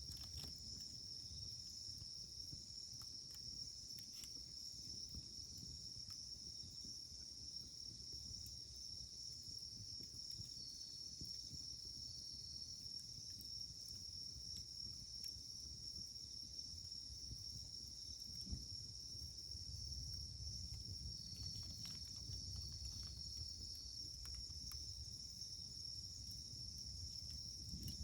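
Wood campfire burning, a low rumble of flame with a few sparse sharp crackles, under a steady high-pitched chorus of insects.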